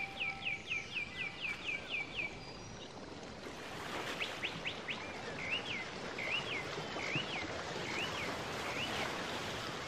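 Songbird chirping over a steady soft hiss: a quick run of short falling chirps, about four a second, for the first two seconds. After a short pause comes a slower series of rising-and-falling whistled notes, about two a second, until near the end.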